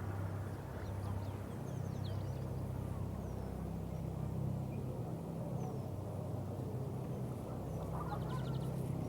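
Waterside ambience: ducks quacking and small birds chirping over a steady low hum and a constant wash of water noise, with a quick run of ticks near the end.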